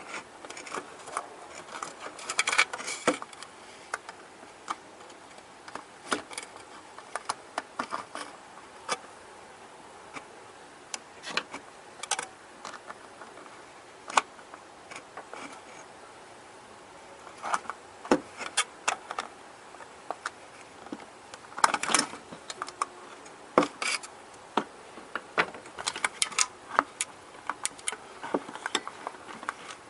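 Irregular light clicks and clatters of small hard objects being handled, in uneven clusters with short pauses between.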